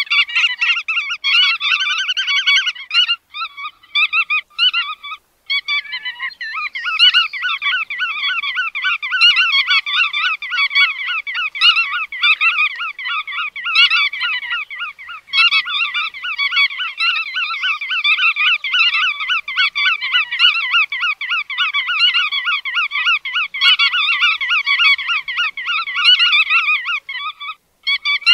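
Bar-tailed godwits calling: a fast, near-continuous run of nasal, honk-like call notes, with a short break a few seconds in.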